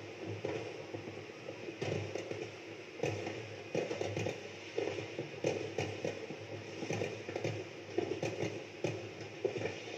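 Aerial fireworks display: many shells bursting in an irregular, continuous run of bangs and crackles, several a second, with stronger bangs every second or two.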